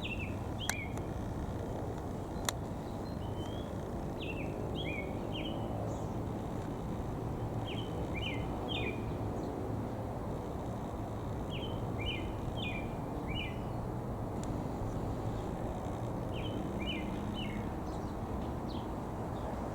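A songbird singing short phrases of three or four quick chirping notes, repeated every few seconds, over a steady low background rumble. Two sharp clicks come in the first few seconds.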